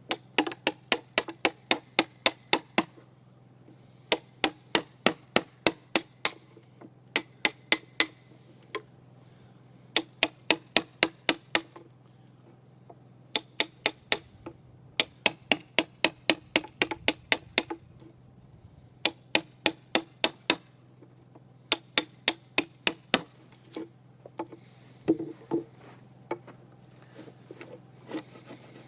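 Hammer driving a wood chisel, chopping out the waste of a notch in a table leg for a 2x4 rail. Quick ringing blows, about five a second, come in runs of a few seconds with short pauses between, then a few lighter taps near the end.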